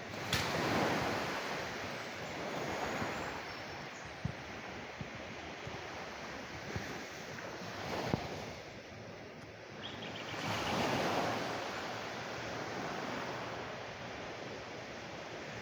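Sea waves washing onto a shore, a steady rushing that swells and falls back, with the strongest surges just after the start and again about two-thirds of the way through.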